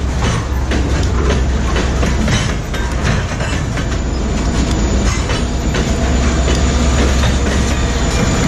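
Freight train passing close by: covered hopper cars rolling past, their wheels clicking over the rail joints over a low rumble. Reading & Northern diesel locomotives then draw alongside, and their engines' low drone grows louder over the last few seconds.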